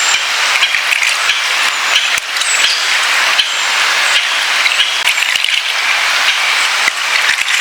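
Wood fire burning on open ground, crackling with frequent irregular pops over a steady rushing hiss.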